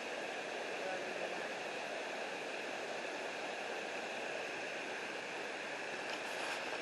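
Steady, even rush of flowing water from a creek and waterfall.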